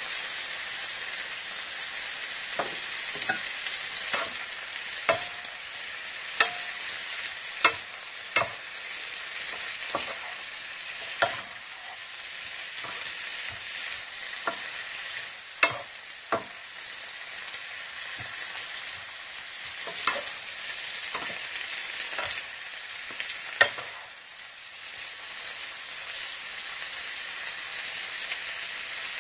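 Shredded cabbage, carrots and chicken sizzling in an electric skillet as they are stir-fried with a wooden spatula, a steady hiss broken by irregular knocks and scrapes of the spatula against the pan.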